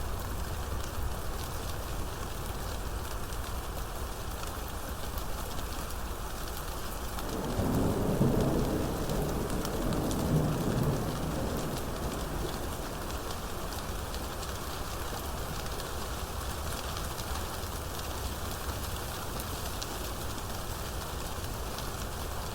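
Steady rain with a roll of thunder rumbling for about four seconds, starting about seven seconds in.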